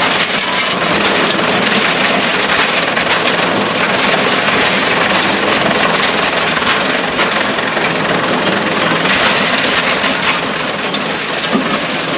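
5 hp Challenge gas engine driving a fodder cutter chopping dry corn stalks: a loud, steady mix of engine running and the rushing, crackling noise of the stalks being cut.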